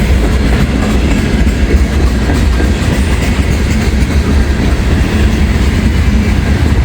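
Freight train rolling past at close range: a loud, steady rumble of steel wheels on rail with clickety-clack from the passing cars.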